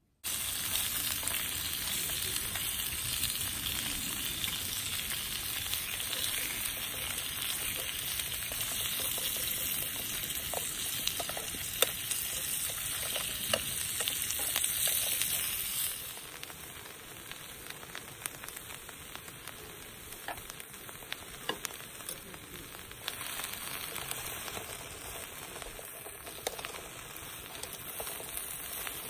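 Chicken pieces frying in a small black pot, with a steady loud sizzle and the clink of metal tongs turning them. About halfway through, the sizzle drops to a quieter frying.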